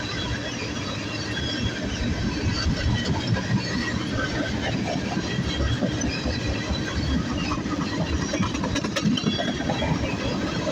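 Freight train rolling past, the steady rumble and clatter of its wheels on the rails.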